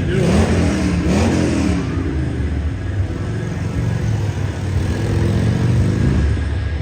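Motocross dirt bike engine revving, its pitch climbing and falling in the first couple of seconds, then running at a steadier pitch.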